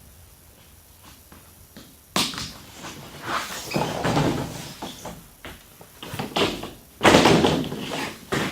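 Corrugated plastic roofing panel being moved and set into place, with a few loud rattling knocks and scrapes starting about two seconds in and again near the end.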